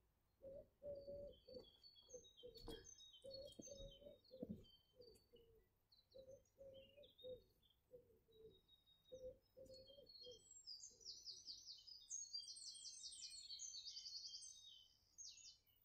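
Faint songbirds chirping and twittering, with a fast, high trill from about eleven to fifteen seconds in. Soft, irregular low knocks and rustles run through the first two-thirds.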